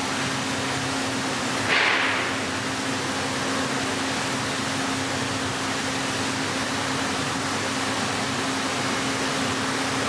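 Heller CNC four-roll hydraulic plate bending roll running: a steady machine hum over a constant hiss, with a brief louder hiss about two seconds in.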